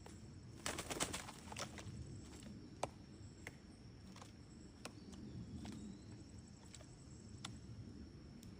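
Sharp, irregular knocks: a quick cluster about a second in, then single taps every second or so. A steady, high insect drone runs underneath.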